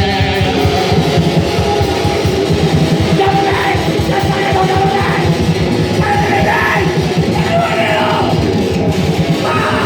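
Loud live rock band: distorted guitars and fast, dense drumming, with shouted vocals coming in about three and a half seconds in.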